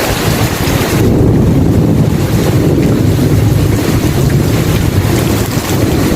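Thunderstorm ambience: a long, low rumble of thunder over rain. About a second in, the rain's hiss thins and the deep rumble takes over.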